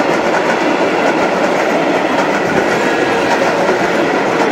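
Old passenger carriages of a steam-hauled train rolling past at speed: a loud, steady rumble with the clickety-clack of wheels over the rail joints.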